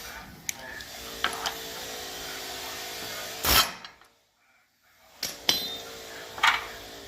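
Clinks and knocks of metal tools being handled on a car's front suspension, with one short loud burst of noise about halfway through, a brief dropout, then a few more sharp knocks.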